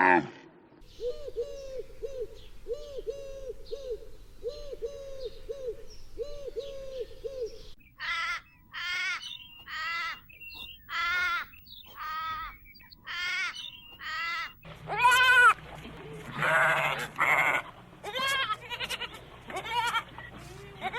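Animal calls in sequence. First comes a run of short, low notes repeated in small groups. From about eight seconds in there are loud, bleat-like calls, about one a second, followed by more varied calls near the end.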